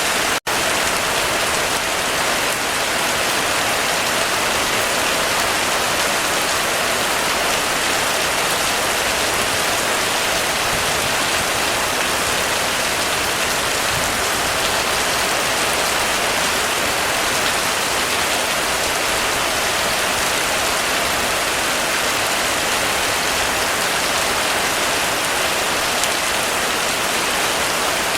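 Heavy rain falling steadily on a roof, a dense even patter. The sound cuts out for an instant just after the start.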